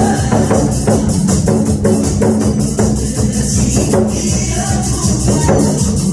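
A Korean buk drum beaten in a steady rhythm over a recorded music backing track.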